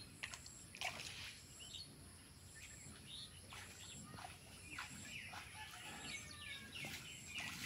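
Faint outdoor ambience of birds chirping in scattered short calls, with small water splashes from hands moving in a pond and a faint high pulsing tone about once a second.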